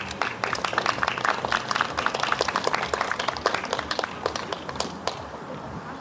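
A small audience applauding, the clapping thinning out and stopping about five seconds in.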